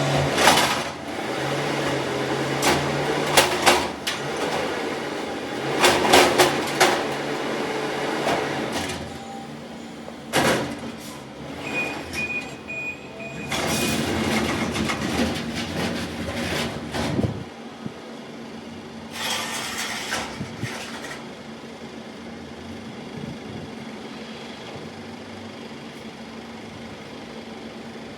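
Garbage truck engine running while trash bins are collected, with repeated clatters and bangs as the bins are lifted, emptied and set down. Loud at first, it settles to a quieter steady hum in the second half.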